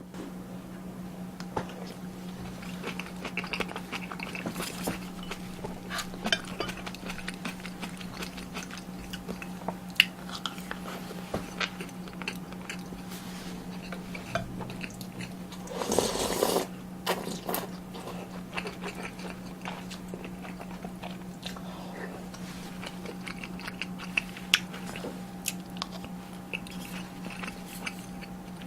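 Close-up eating sounds: chewing and biting, with many small clicks of utensils against dishes, over a steady low hum. About halfway through there is a louder noisy burst lasting about a second.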